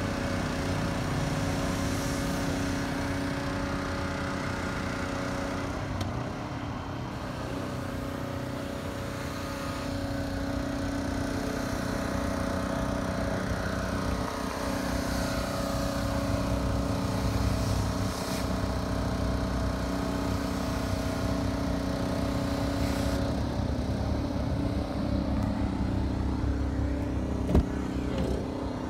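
Volkswagen Golf TDI's 2.0-litre four-cylinder turbo diesel idling steadily, with a single sharp click near the end as a door latch opens.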